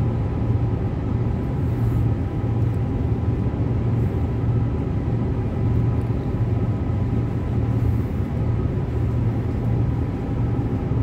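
Transperth B-series electric multiple unit heard from inside the carriage while running at speed: a steady low rumble with a faint steady whine above it.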